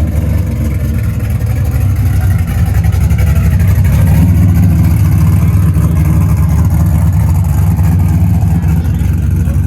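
A car engine running loud and low, swelling a little a few seconds in and then holding steady.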